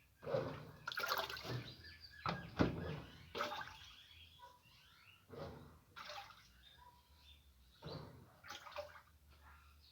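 Water sloshing and splashing in an Easy washing machine's tub, in irregular surges about once a second, over a faint steady low hum.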